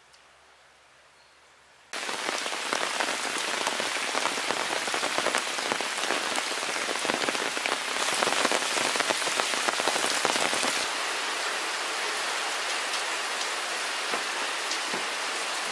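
Steady rain falling, a dense patter of drops that starts abruptly about two seconds in after near silence.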